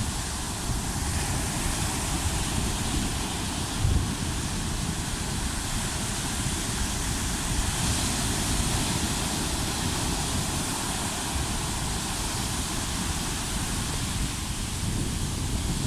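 Sea waves washing on the shore under steady wind, with wind buffeting the microphone as an uneven low rumble and a short louder gust about four seconds in.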